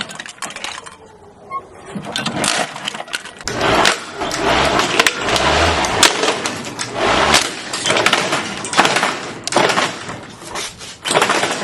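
Plastic toy being shredded by a running lawnmower's blade: rapid cracking and clattering hits. The hits are sparse for the first couple of seconds, then come thick and fast.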